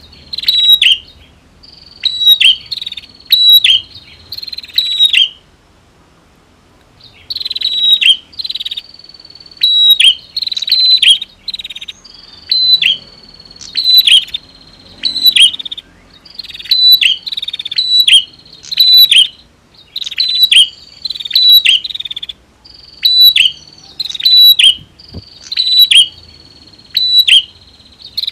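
Prinias (prenjak), male and female, calling and singing: loud, sharp, high-pitched chirping phrases repeated about once a second, in runs broken by short pauses, with a thin high whistling note held under many of the phrases.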